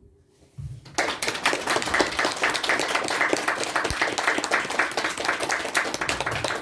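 Audience applauding, starting abruptly about a second in after a brief hush at the end of a song.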